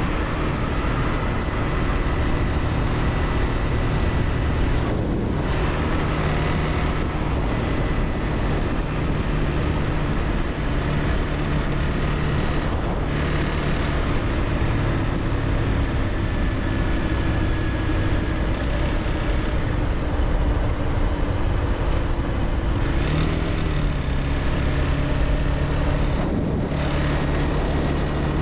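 Honda CBR300R's single-cylinder engine running while riding, under heavy wind noise; the engine pitch shifts a few times and climbs about three-quarters of the way through.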